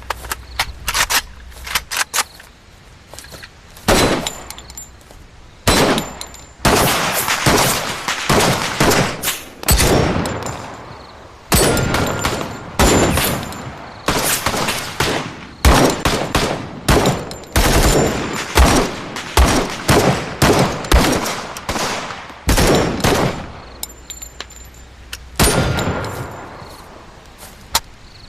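Pistols firing repeatedly in target practice: many sharp shots from several shooters, some single and some in quick runs, each with a short echoing tail.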